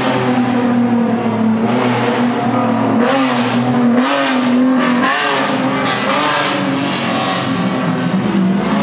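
Car engine revving hard, its pitch rising and falling in the middle.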